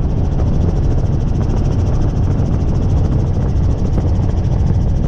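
Helicopter running: a loud, steady low drone with a rapid, even beat from the rotor blades.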